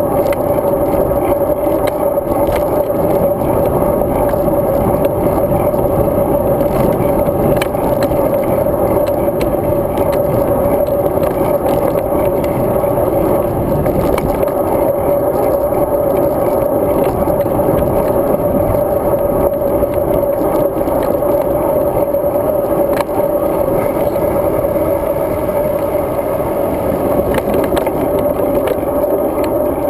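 Steady rushing wind and road noise from a road bike in motion, with a constant hum and a few small clicks and rattles from bumps in the pavement.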